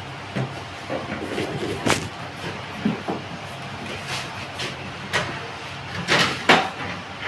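Irregular knocks and bangs from handling and fitting a window air conditioner unit, about six sharp ones with the loudest near the end, over a steady low hum.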